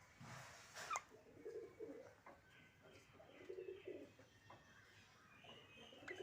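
Faint low bird calls in several short phrases, with a few light clicks.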